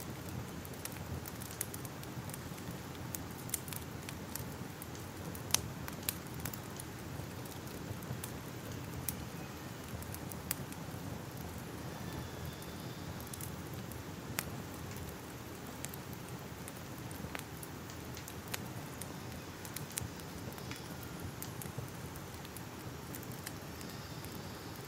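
Crackling fire ambience: a steady low rumble of burning with irregular sharp pops and crackles, a few of them louder than the rest.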